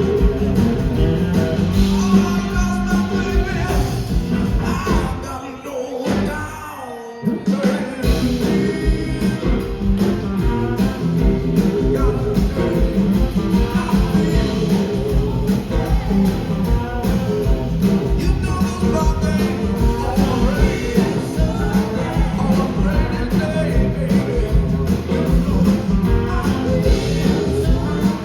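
Live blues-rock band playing with guitar, bass and drums. About five seconds in the band drops out briefly, leaving one sliding note, and the full band comes back in around eight seconds.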